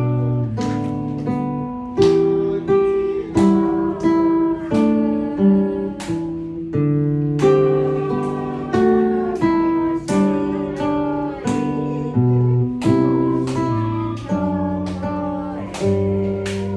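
Acoustic guitar playing a slow, gentle melody: single plucked notes struck about one to two a second and left to ring over lower bass notes.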